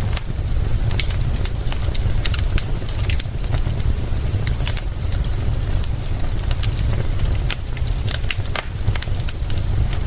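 Wood fire crackling, with irregular sharp pops and snaps, over a steady low rumble.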